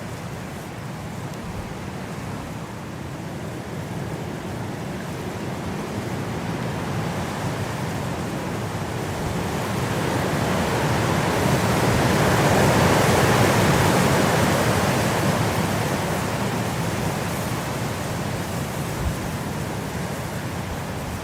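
Winter wind blowing in a steady rush that builds into a strong gust around the middle, then dies back down.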